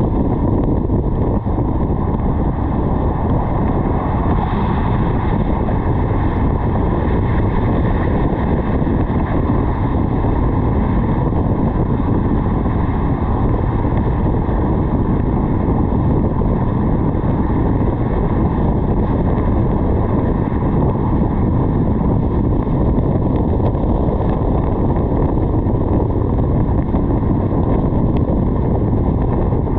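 Steady rush of wind over a roof-mounted camera's microphone on a moving car, with road noise underneath. It holds level throughout, deep and loud, with no changes.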